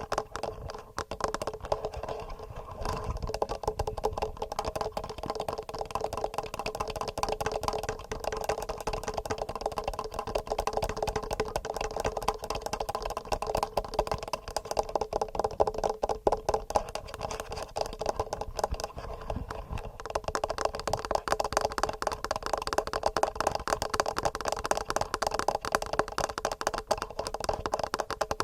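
Fingernails tapping fast on a TASCAM recorder and its microphones: a dense, continuous clatter of clicks.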